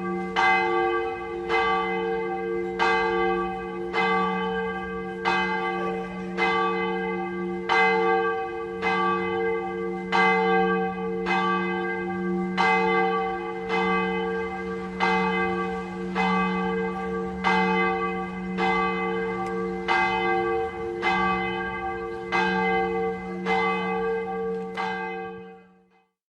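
A church bell struck over and over at a steady pace, a little faster than once a second, each stroke ringing on into the next so a steady bell hum lies under the strikes. The ringing stops abruptly just before the end.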